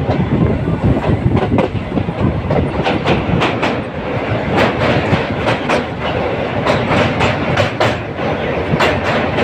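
Train wheels running on the rails: a steady rumble with clickety-clack as the wheels pass over rail joints. The clicks come in quick pairs and grow more frequent about a third of the way in.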